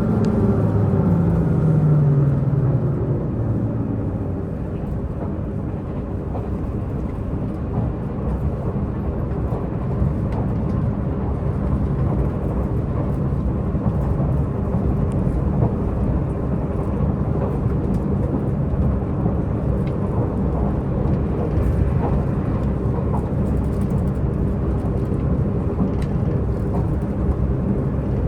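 Diesel multiple-unit express heard from inside the passenger cabin. The diesel engine's drone falls in pitch over the first few seconds as it eases off, then settles into a steady low rumble of engine and wheels on the rails, with occasional faint clicks.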